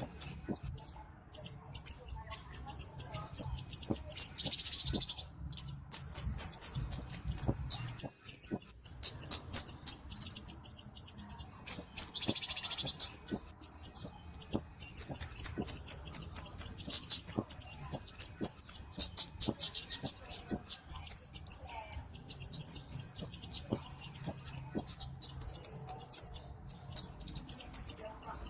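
A flowerpecker (cabe-cabean) calling in rapid runs of very high, thin, ticking notes, the runs broken by short pauses. About four seconds in and again about twelve seconds in there is a harsher, buzzier call.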